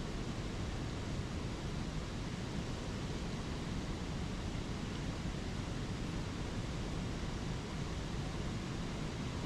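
Spring creek water rushing over small waterfalls: a steady, even rush with no breaks.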